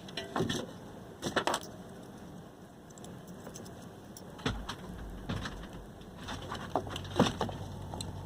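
Scattered clicks and knocks of small parts being handled, as an overload protector is pushed onto a refrigerator compressor's terminal pins. A low hum sets in about halfway through.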